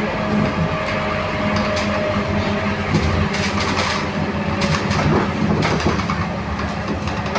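Scania K230UB city bus heard from inside the cabin on the move: a steady diesel engine drone with road noise, a thin whine in the first few seconds, and scattered clicks and rattles from the bus body.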